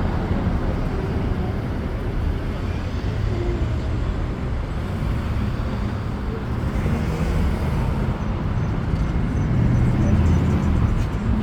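Steady low rumble of heavy vehicles, with no distinct starts, stops or impacts.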